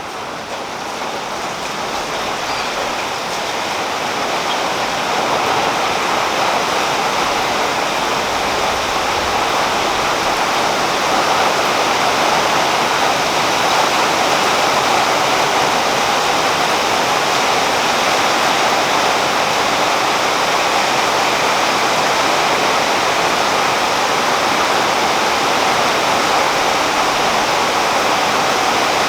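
Steady rain falling on a tree's leaves, a dense even hiss that swells over the first few seconds and then holds steady.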